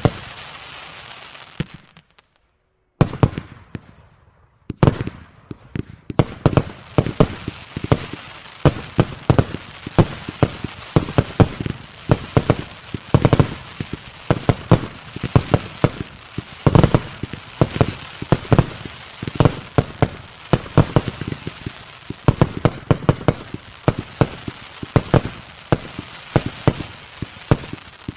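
Fireworks display: rapid bangs of shells and cakes going off, several a second, with crackle between. A short gap with almost nothing about two seconds in, after which the bangs return and build into a dense, steady barrage.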